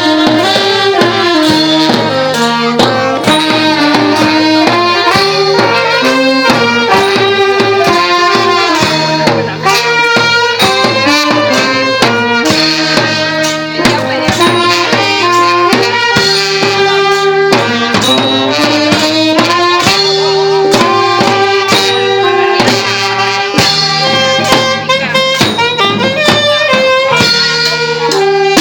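Thai brass band (trae wong) playing a lively melody, brass and saxophone carrying the tune over steady drum beats.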